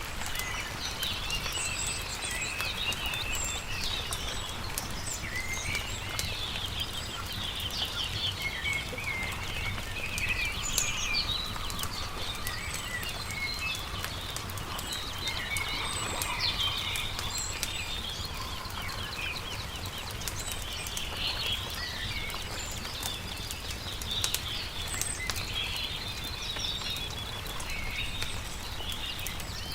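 Several songbirds chirping and warbling, with short calls coming thick and overlapping throughout. Under them, a campfire crackles with scattered small pops, over a steady low rumble.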